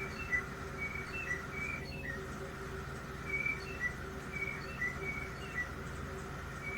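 Songbirds chirping: short high chirps repeating a few times a second, over a steady background hiss with a faint low hum underneath.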